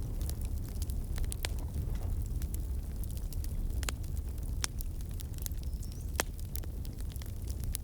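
Fireplace fire crackling: irregular sharp snaps and pops over a steady low rumble of the flames, with a brief faint whistle about five and a half seconds in.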